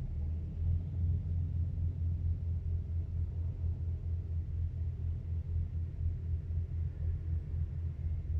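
Low, steady rumble of a ship's diesel engine, throbbing at about three to four beats a second.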